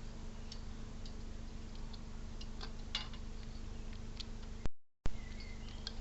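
Scattered sharp clicks and ticks, a few a second at most, over a steady electrical hum. About five seconds in the sound drops out completely for a moment, with a pop on either side, and a faint short chirp follows.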